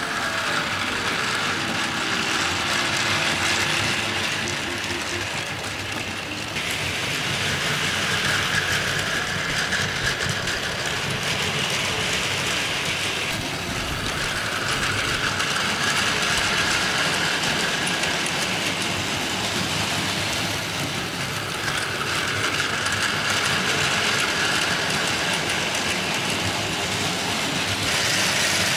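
Battery-powered Plarail toy locomotives, an EH500 'Kintaro' and a DF200, running with a long freight train: a steady small-motor whir and rattle of plastic wheels on plastic track, growing louder and softer several times as the train comes round past the microphone.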